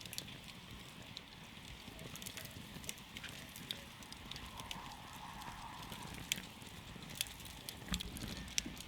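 Wood campfire crackling, with irregular sharp pops and snaps over a steady low rustle of burning, a few louder pops coming in the second half.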